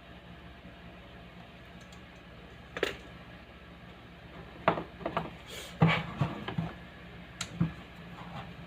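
Loudspeaker giving off a steady low electrical hum. Over it come a scattering of sharp clicks and light knocks: one about three seconds in, a quick cluster a couple of seconds later, and two more near the end.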